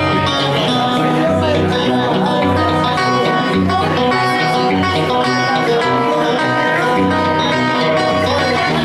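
Solo guitar playing a blues tune live: a steady, repeating bass line under picked melody notes.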